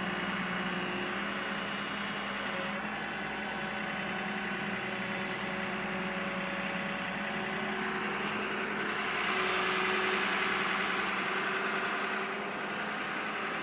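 Heavy vehicle engine running steadily at idle, growing a little louder around ten seconds in.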